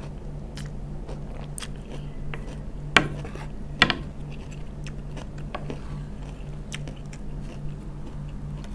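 Close-miked chewing and crunching of asinan sayur, a pickled vegetable salad, with many small mouth clicks. Two sharp knocks about three and four seconds in as the wooden spoon strikes the skillet, over a low steady hum.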